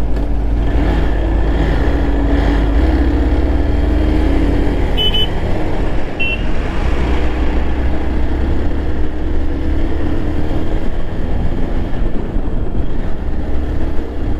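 Motorcycle engine running under a steady low rumble while being ridden, its pitch wavering a little. Two brief high tones sound about five and six seconds in.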